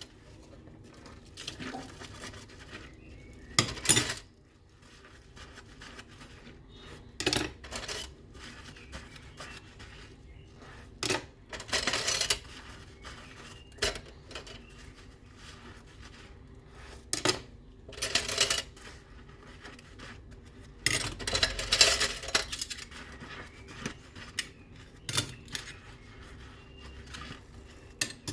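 Dishes and cutlery clinking and clattering against each other during hand dishwashing: separate knocks every few seconds, with a longer run of clattering about three quarters of the way through.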